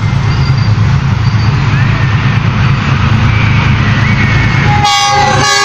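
Passenger train running, a steady loud rumble of wheels on rail heard from inside a moving carriage. Near the end the rumble cuts out abruptly and a brief pitched tone comes in.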